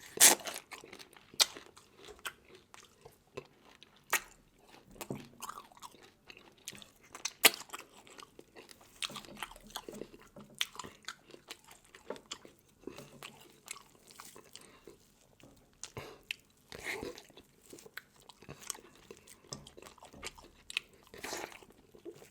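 Close-up eating of crunchy seafood: irregular sharp crunches and cracks as shell and bone are bitten, between softer wet chewing. The loudest cracks come just after the start and at about seven seconds in.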